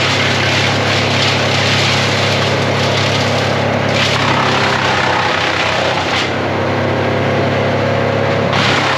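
Vermeer BC1000 brush chipper running hard, a steady engine drone under a loud wash of chipping noise that shifts a few times as brush goes through.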